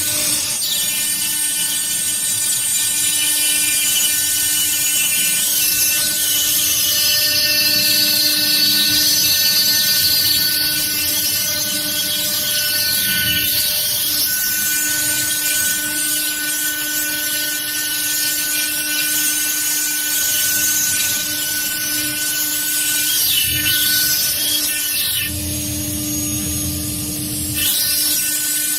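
CNC stone-engraving machine, its high-speed spindle running and cutting stone with a steady high whine and hiss. About 25 seconds in, the hiss drops and a lower rumble comes up for about two seconds, then the whine returns.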